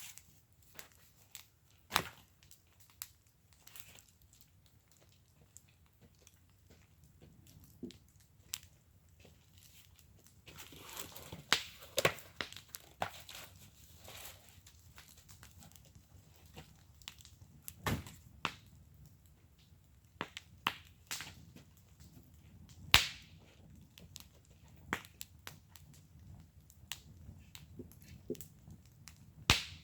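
Wood fire in a fire pit crackling, with irregular sharp pops and snaps, a busier run of crackling about ten seconds in, and a few louder single pops.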